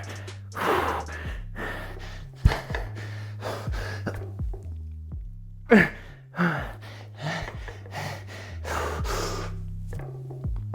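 A man breathing hard through a set of barbell presses and burpees, with short forceful exhales and gasps every second or so, over background music with a steady low bass line. A few sharp knocks come in between, the loudest about two and a half seconds in.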